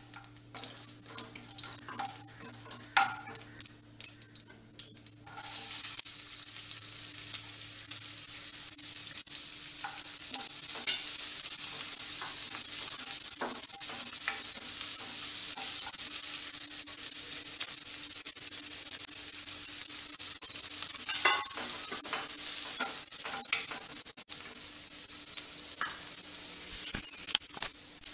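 Chopped onion, green chilli and ginger hit hot oil in a nonstick kadai and start sizzling suddenly about five seconds in, then keep frying as a wooden spatula stirs them, with occasional clicks of the spatula on the pan. Before that there is only the quieter tempering of seeds and dal, with scattered spatula taps.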